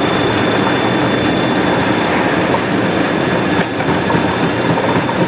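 Boeing 737-200 freighter's Pratt & Whitney JT8D engines at takeoff thrust, heard from inside the cockpit during the takeoff roll: a steady, loud rushing noise with a thin, constant high whine.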